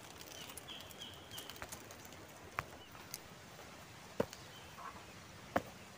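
Faint birds calling: a quick run of three short high chirps about a second in and a few fainter notes later. Three sharp clicks are spaced through it, the loudest sounds here.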